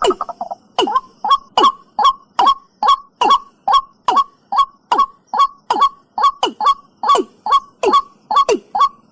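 Watercock calling: a rapid, even series of short hollow notes, about three a second, each dropping in pitch, preceded at the very start by a brief bubbling run of notes.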